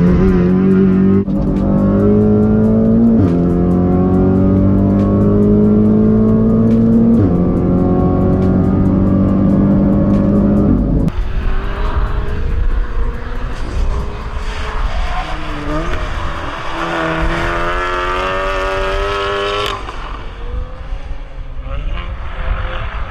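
Car engine at full throttle accelerating hard through the gears, its pitch climbing and then dropping at upshifts about one, three and seven seconds in. About eleven seconds in the sound cuts abruptly to a different, noisier engine sound whose pitch rises and falls.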